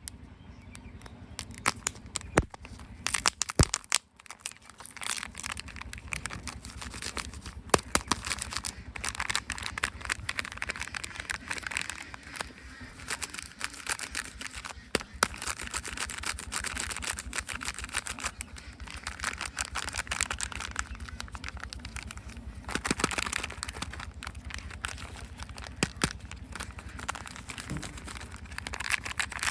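Plastic surprise eggs and their wrappers being handled and opened: continuous crinkling and rustling, broken by scattered sharp plastic clicks and snaps.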